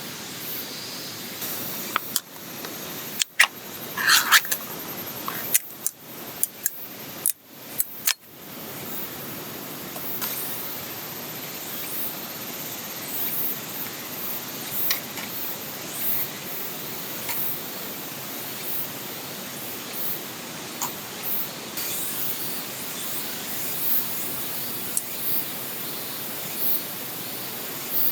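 Steady rushing of a flowing stream, with a series of sharp clicks and knocks in the first eight seconds and scattered small ticks after that.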